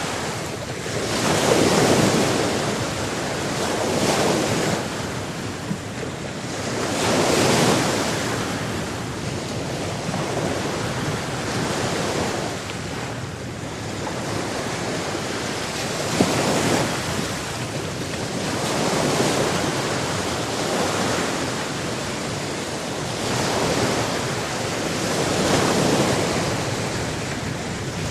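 Sea surf washing ashore, the noise of the waves swelling and ebbing every few seconds.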